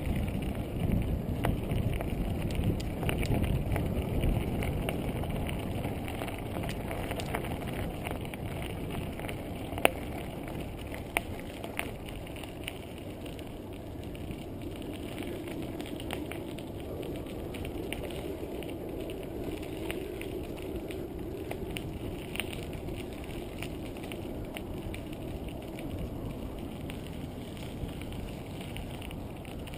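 Bicycle riding noise from a camera carried on the bike: a rough rumble of tyres and frame rattle with scattered sharp clicks and knocks, the sharpest about ten seconds in. It is louder for the first few seconds, then settles a little quieter.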